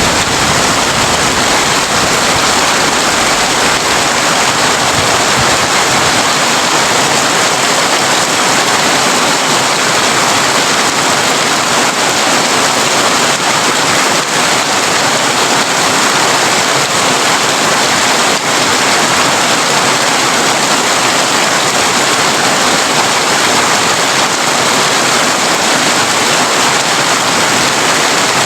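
Heavy rain pattering steadily on a tin roof, a dense even hiss of countless drops. A low rumble dies away in the first few seconds.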